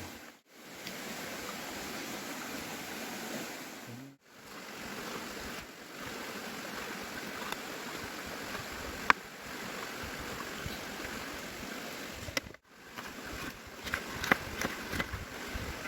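A stream of running water, a steady rushing, broken by three brief dropouts. One sharp click comes about nine seconds in, and a run of clicks and knocks comes near the end.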